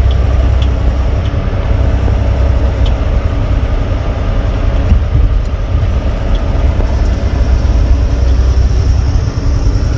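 Semi truck driving, heard from inside the cab: a steady low rumble of the diesel engine and road noise, with a few faint ticks.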